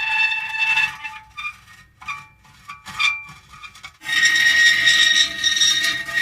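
Metal creaking: a long, high squealing creak that breaks off about a second in, a few short creaks and ticks, then another long squealing creak from about four seconds in.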